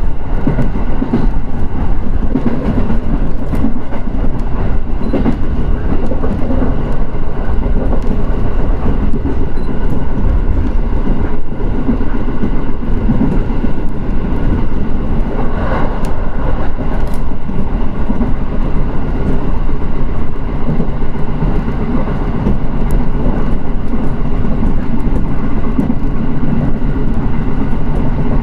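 Shin'etsu Main Line electric train running along the track between stations: a steady, loud rumble of wheels on rail, with occasional light clicks.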